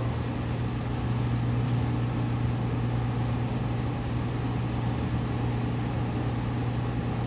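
Steady running noise of a Seibu 2000 series electric train heard from inside the car: a continuous rumble of wheels on rail over a low hum, from a set whose wheels have flat spots.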